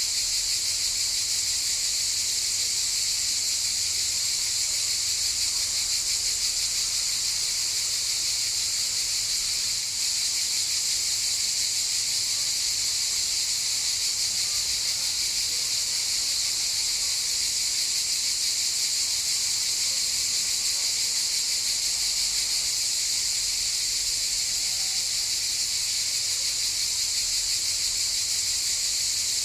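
Cicadas buzzing in a steady, continuous chorus, a high shrill drone that holds an even level without pause.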